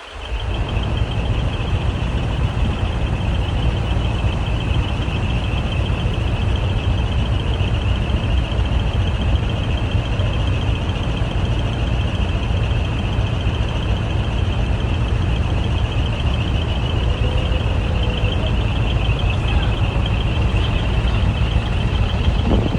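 Heavy diesel truck engines running steadily through loud, modified exhaust, a deep continuous rumble with a rapid rattling edge high up.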